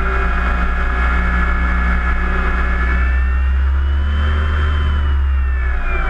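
Electric motor and propeller of a HobbyKing Cessna 182 RC model plane running with a steady whine. The pitch rises a little past the middle and drops away near the end as the throttle eases. Heavy wind rumble sits underneath.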